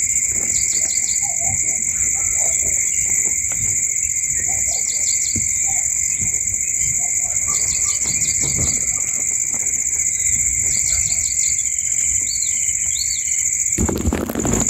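Steady high-pitched insect drone, two unbroken tones like a cricket or cicada chorus, with short bursts of rapid bird chirps about every three seconds and a couple of quick rising-and-falling bird calls near the end. Just before the end a sudden rush of wide noise sets in.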